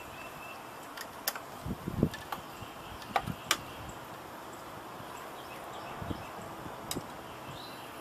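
Scattered sharp clicks and a few dull knocks of computer parts being handled inside a desktop case as a hard drive is disconnected and removed, over a steady faint hiss.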